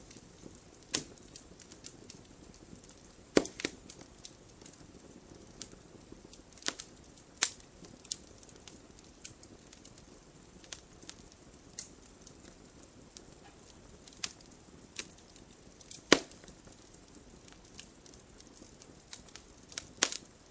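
Wood fire crackling: irregular sharp pops and snaps over a soft steady hiss, with louder pops about three and a half seconds in and about sixteen seconds in.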